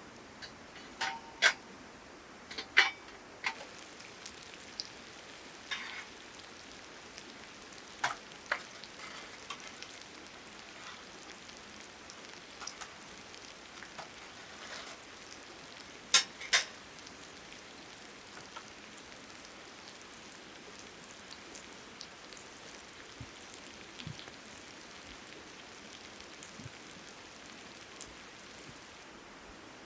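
Meat sizzling on a grill over a campfire stand: a steady hiss with scattered sharp pops and crackles, the loudest about a second and a half in, near three seconds, around eight seconds, and a close pair around sixteen seconds.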